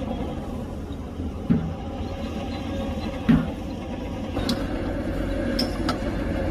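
Diesel engine of heavy earthmoving machinery running steadily, with two sharp knocks, the second the loudest, and a few fainter clicks toward the end.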